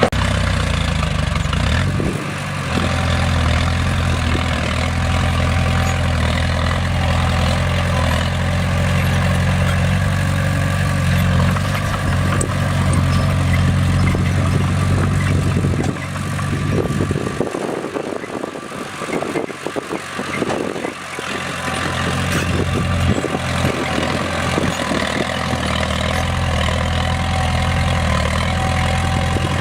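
Bulldozer's diesel engine running steadily with a deep drone. For a few seconds past the middle the drone drops away and irregular clattering and knocking take over, then the steady running returns.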